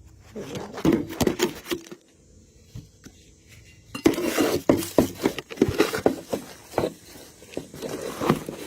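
Clattering and knocking from hands and a tool working in a rain gutter during gutter cleaning: a short bout of knocks in the first two seconds, then a busier run of clatter from about four seconds in.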